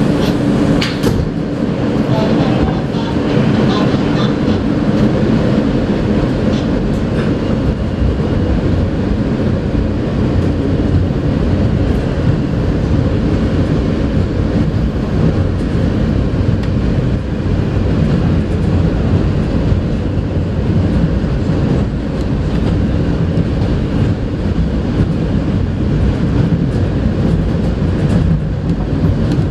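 R160A New York City subway car in motion, heard from inside: a steady rumble of wheels on rails and running gear between stations.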